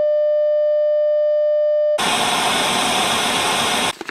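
A steady electronic beep tone, then about two seconds in, loud hissing static that cuts off abruptly just before the end: a signal-loss sound effect.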